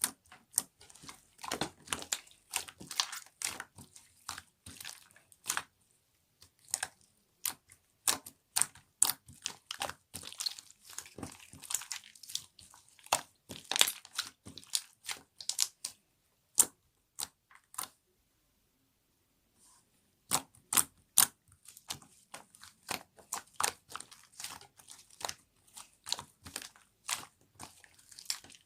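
Slime with clay on top being squeezed and pressed by hand, giving quick irregular sticky clicks and crackles, with a pause of about two seconds near two-thirds of the way through.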